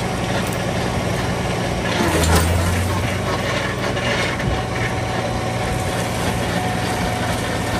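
Tractor engine running a Sidewinder PTO stump grinder while its cutter wheel chews through wood debris, with crackling from the chips. About two seconds in, the engine note swells for about a second as the cutter takes load.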